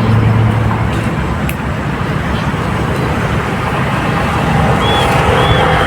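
Steady road-traffic noise, with a vehicle's engine rising in pitch near the end as it comes closer.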